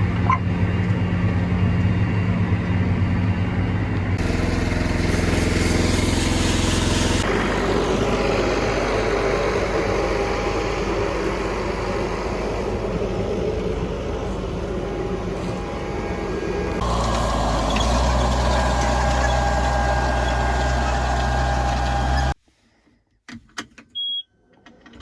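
Vehicle engines running steadily through several abruptly cut clips, each with its own steady hum. Near the end it drops to near silence with a few sharp clicks and one short high beep.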